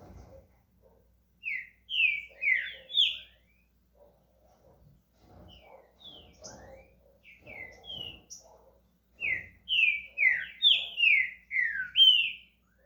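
Green-winged saltator (trinca-ferro) singing: two loud phrases of quick, clear, downward-slurred whistles, one about a second and a half in and one about nine seconds in, with softer scattered notes between them, as the bird starts into its song.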